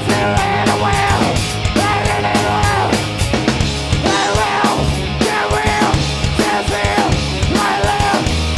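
Rock band playing a punk rock song: fast, dense drum hits over a heavy bass line, with bending melodic lines above.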